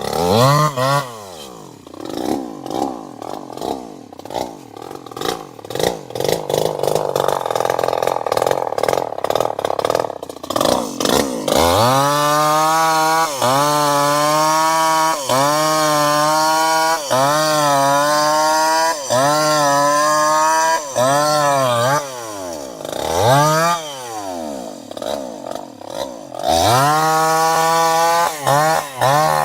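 Two-stroke chainsaw engine. It falls from high revs to a rough idle, then from about twelve seconds in it is revved up and down in quick surges about once a second, and near the end it is held at high revs.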